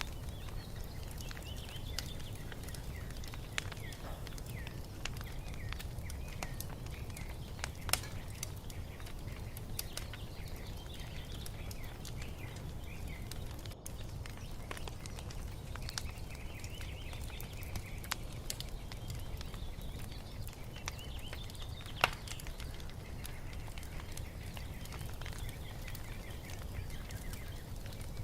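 Wood fire crackling steadily, with two sharp pops, one about 8 seconds in and a louder one about 22 seconds in, over a low steady rumble. Small birds chirp and twitter throughout.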